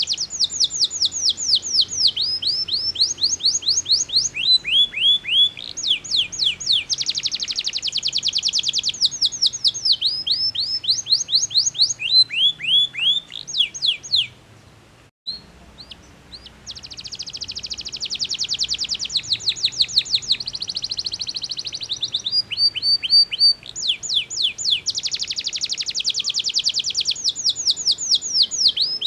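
Domestic canary singing: high, fast trills and rolls of rapidly repeated down-sweeping chirps, with a break of about a second and a half halfway through.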